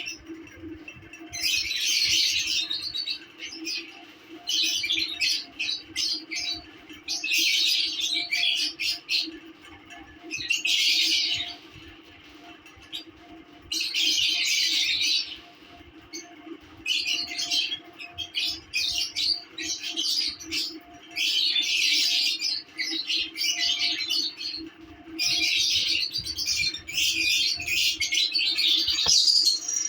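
Lovebirds chattering and squawking in repeated bursts of about a second or two, with short pauses between them, over a steady low hum.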